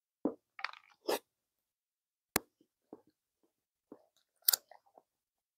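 A person chewing a mouthful of bacon quarter pounder burger: irregular wet mouth clicks and soft crunches, with a sharp click a little past halfway and a louder pair of crunches near the end.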